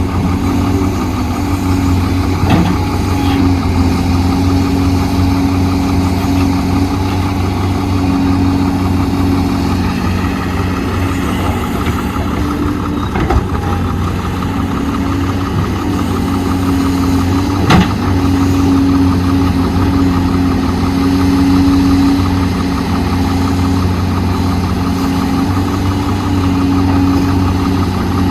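Heavy construction machine's diesel engine running steadily, its pitch rising and falling slightly, with a few sharp knocks, the loudest about eighteen seconds in.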